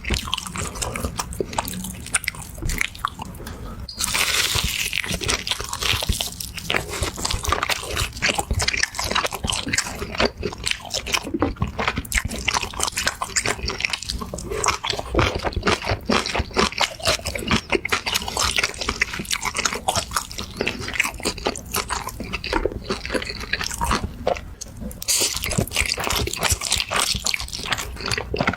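Close-miked eating sounds: chewing and biting, heard as a dense run of small clicks, with a louder rush of noise about four seconds in and again near the end.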